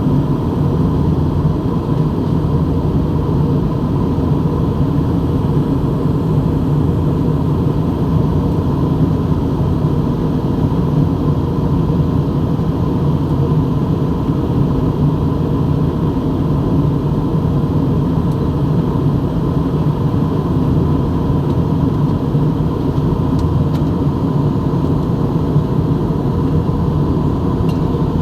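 Aeroplane's steady drone: a constant low rumble with a faint, steady, higher tone above it.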